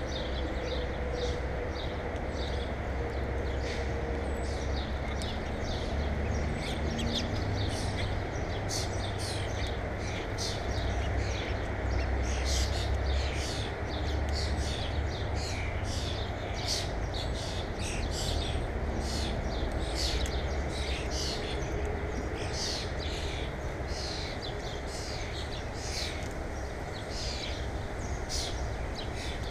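Birds chirping, many short high calls one after another with no let-up, over a steady low rumble.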